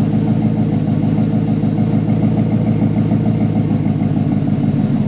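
A 2013 pickup's engine idling steadily just after being started, heard through its Flowmaster 40 muffler exhaust with dual outlets.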